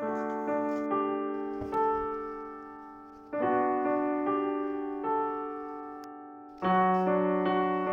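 Background piano music: a chord struck about every three seconds and left to ring and fade, with single notes in between.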